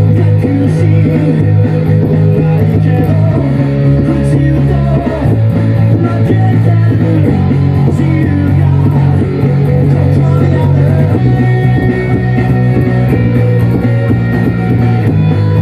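Thunderbird electric bass playing a rock bass line of long held low notes that change every second or so, together with electric guitar and the rest of a rock band's recording.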